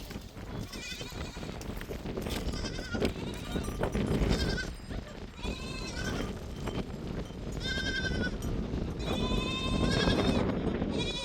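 A flock of sheep and goats bleating: one wavering bleat after another, about one a second, some overlapping from different animals, over a steady low noise.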